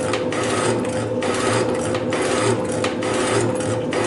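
Metal shaper running and cutting steel, its ram stroking back and forth with a short break about once a second.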